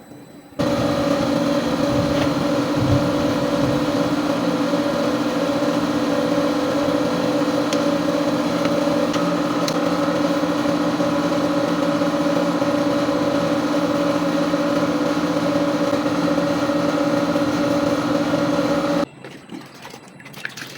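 A motor running with a steady, unchanging hum, starting abruptly about half a second in and cutting off suddenly near the end.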